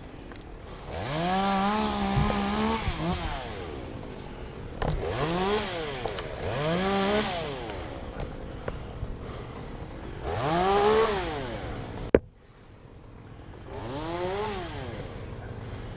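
Chainsaw engine revved up and down in about five short bursts, each rising to full throttle and dropping back to idle. A sharp click comes a little after the fourth burst.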